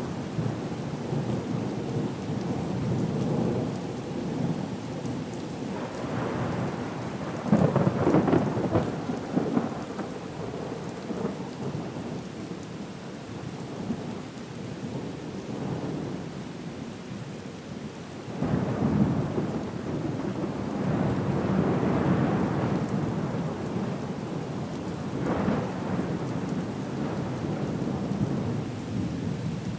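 Steady heavy rain with rolling thunder. The rumbles swell and fade several times, loudest about seven to nine seconds in and again around twenty seconds.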